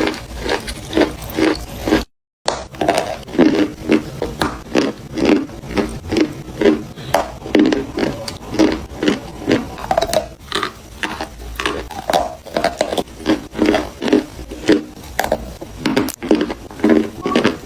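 Chalk being bitten and chewed close to the microphone: a steady run of crisp crunches, about three a second, with a brief dropout about two seconds in.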